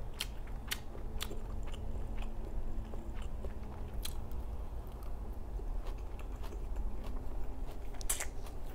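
Close-miked chewing and biting of salmon salad with fresh leafy greens, with sharp wet mouth clicks and smacks scattered through.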